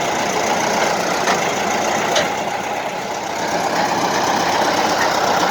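Engine of a new digging machine (حفارة) running steadily under a test run.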